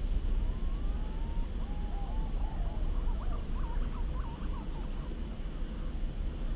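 A bird calling in whistled notes: a few sliding notes, then a quick run of rising-and-falling notes about three seconds in, over a steady low rumble.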